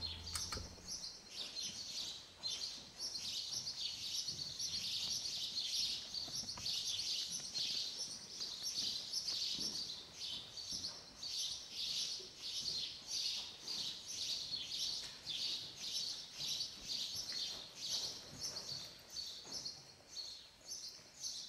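Small birds chirping over and over, a steady run of short high-pitched chirps, about three a second.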